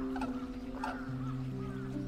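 Crowned crane giving a few short honking calls, over background music with sustained notes.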